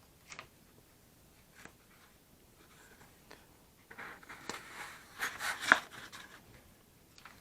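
Light handling sounds of bench work on a balsa model: a few faint clicks, then about two seconds of scratchy rustling and scraping a little past the middle.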